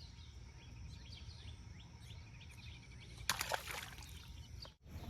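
Pondside ambience: birds chirping over a low wind rumble, with a short, loud noisy burst a little past three seconds in.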